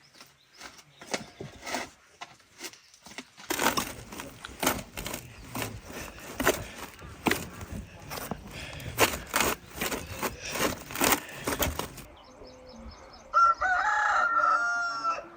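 A rooster crows once near the end. Before it come several seconds of rapid, irregular clicks and knocks.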